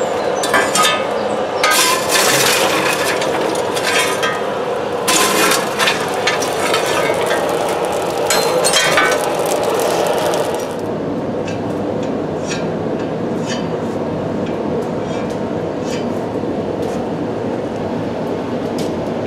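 A forge running with a steady roar while stainless steel stock heats in it. For about the first ten seconds, sharp metallic clinks and scrapes sound over it; after that only the roar and a few faint ticks remain.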